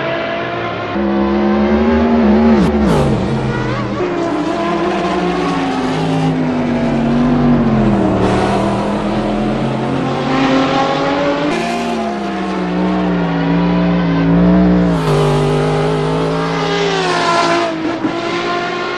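Race car engines running hard on a circuit, the pitch climbing and then stepping down with gear changes several times. A car sweeps past about two and a half seconds in, its pitch falling sharply.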